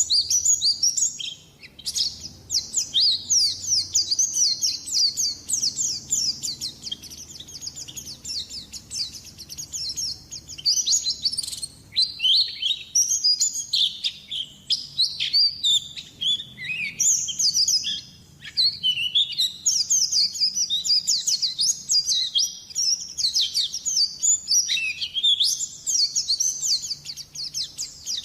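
A white-eye (pleci) singing a fast, continuous, high twittering song of rapid chirps, with short breaks about 2, 12 and 18 seconds in.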